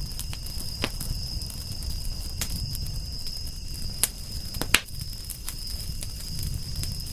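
Wood fire crackling, with scattered sharp pops over a low rumble. The loudest pop comes nearly five seconds in. A steady high-pitched tone runs underneath.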